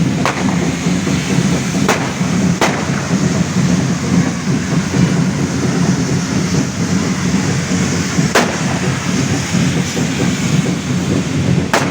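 Fireworks going off: sharp cracks, about five of them standing out, scattered over a steady low rumble.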